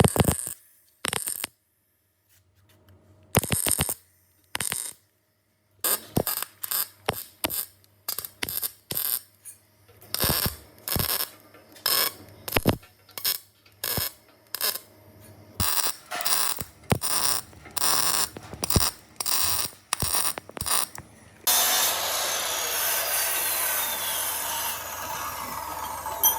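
Hand tool working in a run of short, sharp mechanical strokes, about two a second, after a few isolated strokes. About 21 seconds in, a steady harsh noise takes over.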